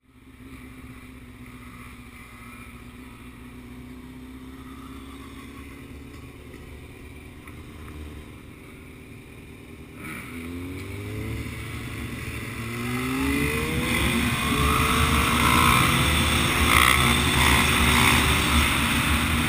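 Dirt bike engine running at a distance, then revving hard and accelerating up through the gears, its pitch climbing in several steps. It gets much louder halfway through and ends in a loud rush of engine and wind noise.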